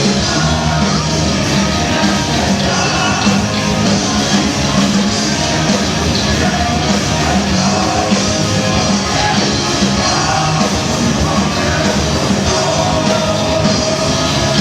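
Rock band playing live at full volume, with a singer's voice over the band.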